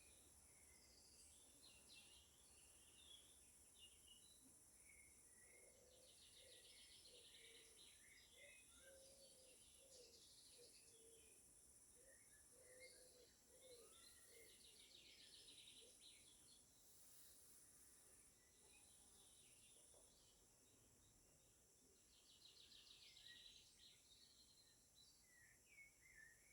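Faint songbirds: scattered chirps and three short, rapid trills, with a run of lower notes in the middle, over a steady high hiss.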